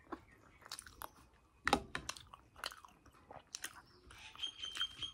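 Close-up chewing and mouth sounds of someone eating a spoonful of curry with semolina (suji) puri: irregular wet smacks and clicks, with a stronger smack a little under two seconds in.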